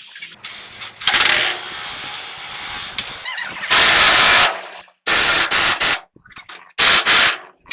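A workshop power tool run in four loud, short bursts with pauses between, the longest lasting under a second in the middle.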